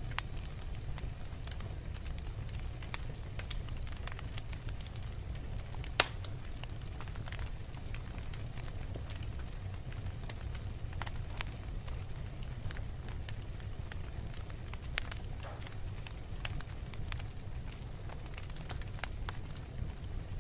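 Wood logs burning in a fireplace: a steady low rumble of flame with scattered irregular crackles and snaps, one sharp louder pop about six seconds in.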